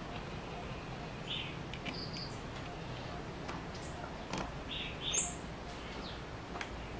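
Small birds chirping in short, high calls, a few at a time, over a steady low background hum. Faint small clicks come from metal standoffs being turned onto a stripboard.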